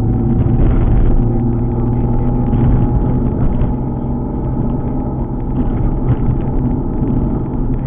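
Alfa Romeo 147 GTA's 3.2-litre V6 engine running steadily while the car is driven, with a low rumble of road noise under it.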